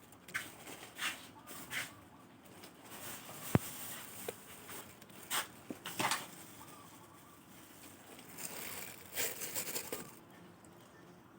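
Scattered knocks, taps and rustles of food preparation at irregular intervals, with one sharp knock about three and a half seconds in.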